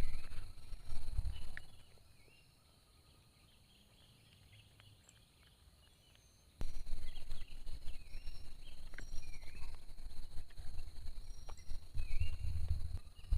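Forest birds chirping in short repeated calls over a steady high insect drone, with low knocks and thumps of handling. The sound drops out about two seconds in and comes back abruptly a few seconds later.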